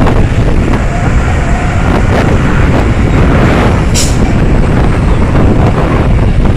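Fuel tanker truck running on a downhill road: a loud, steady low rumble, with a short sharp hiss about four seconds in.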